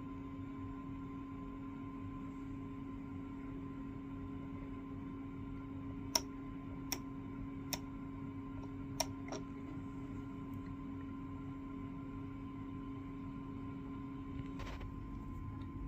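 Steady machine hum, with five sharp clicks between about six and nine and a half seconds in.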